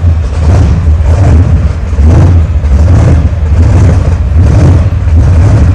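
Monster trucks' Hemi V8 engines running at low speed, a loud deep rumble that swells and dips unevenly.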